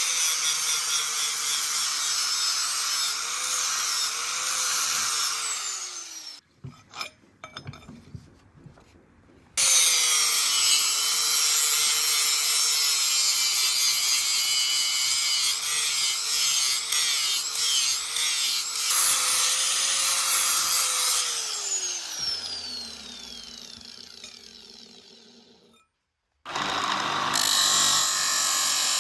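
High-speed electric power tool running, its pitch wavering under load, then winding down after being switched off, twice; each time it starts again abruptly after a short quiet gap.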